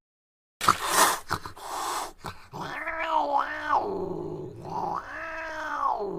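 A cat meowing: two drawn-out meows, each rising and then falling in pitch. They follow a second or so of rustling and knocking.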